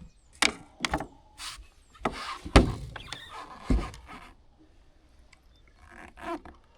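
A series of knocks and thumps, about half a dozen in the first four seconds, with a scraping rustle around two seconds in, then quieter, with a couple of soft knocks near the end.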